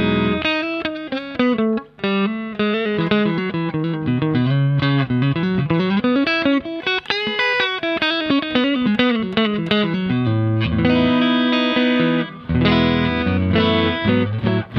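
Electric guitar played through a Fender Hot Rod Deluxe IV 40-watt tube combo with a 12-inch Celestion Type A speaker, on its clean channel. Quick single-note lines with string bends give way about ten seconds in to held, ringing chords.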